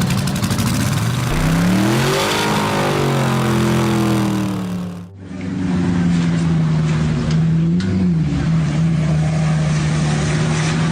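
Car engine revving, its pitch rising and then falling. About halfway through, an abrupt cut switches to an engine running at a steady pitch, with a brief wobble a few seconds later.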